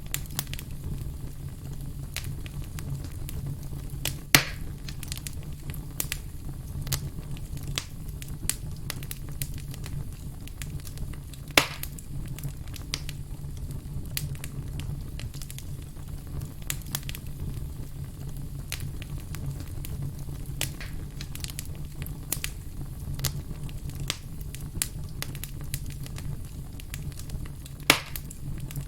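Campfire crackling with frequent small pops and three much louder snaps, about four seconds in, near the middle and near the end, over a steady low rumble.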